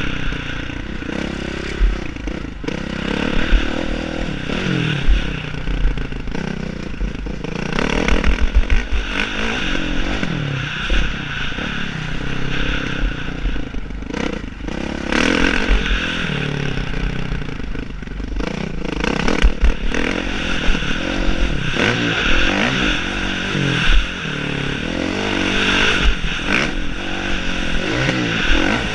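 Motocross bike being ridden, its engine revs rising and falling over and over, with clattering knocks and thumps throughout.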